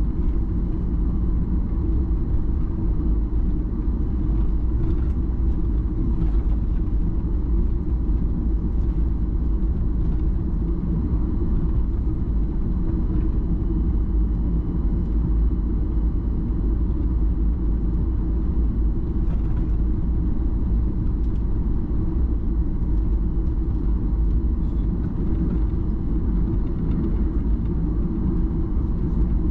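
Steady low rumble inside the cabin of a Boeing 737-800, from its CFM56-7B jet engines and the air rushing past the airframe, holding an even level throughout.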